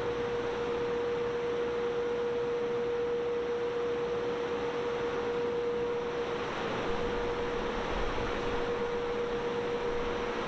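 Automatic drive-through car wash running: a steady rushing noise with a steady mid-pitched machine whine through it.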